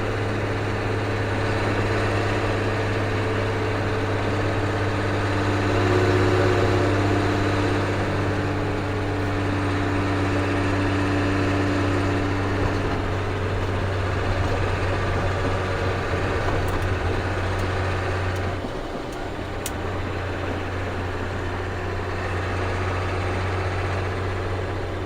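Ford CF7000's 6.6-litre Brazilian inline-six diesel running at a steady engine speed. Its note drops out briefly about three-quarters of the way through, then settles back.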